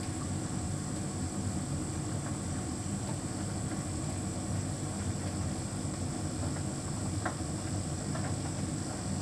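Hotpoint heat pump tumble dryer running: a steady low hum and rumble with a thin high-pitched whine over it, and a few faint light ticks.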